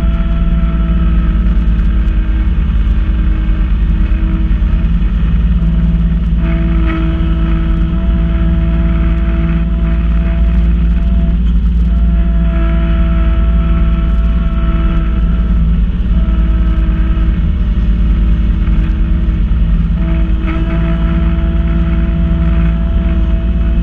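Kubota B2650 compact tractor's three-cylinder diesel engine running steadily while driving a front-mount snowblower, with a whining tone that comes and goes in stretches of a few seconds.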